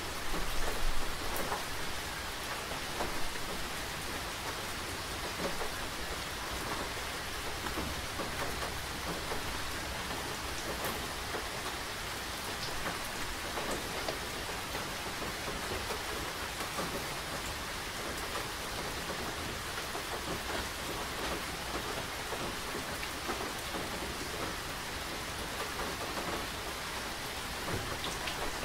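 Steady rain falling, with a dense patter of drops hitting surfaces. It swells briefly louder about a second in.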